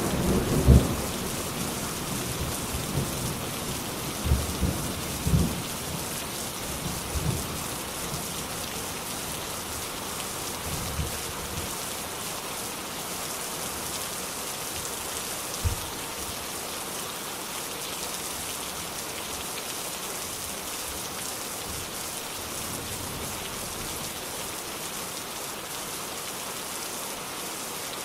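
Steady heavy rain, with thunder rumbling in deep swells over the first few seconds and a last low thump about halfway through, then rain alone.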